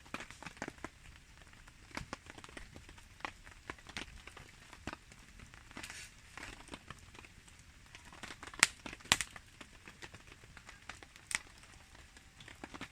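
Wood campfire crackling with irregular sharp pops, two louder snaps a little past the middle, over a soft patter of rain.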